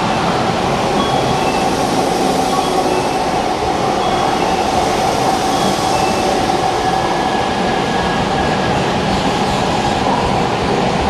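Unrenovated Odakyu 1000 series ten-car electric train passing through an underground station without stopping: a loud, steady rumble of wheels and cars with a constant high tone running through it.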